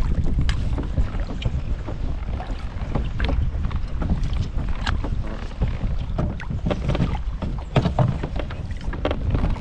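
Wind buffeting the microphone with a steady low rumble, while small waves slap against a plastic kayak hull with scattered light knocks and clicks.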